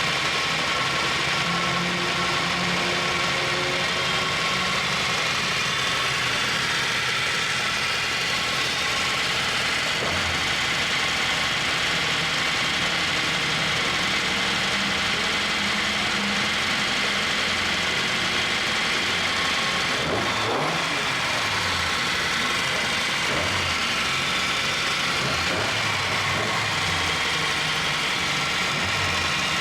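Car engine noise running steadily, with a brief rise and fall in pitch about two-thirds of the way through.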